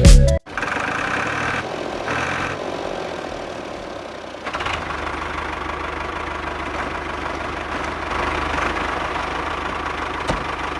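Small electric motor of a homemade model machine running. A whine starts and stops in the first couple of seconds, then a steadier, lower running hum with a noisy rattle sets in about four and a half seconds in.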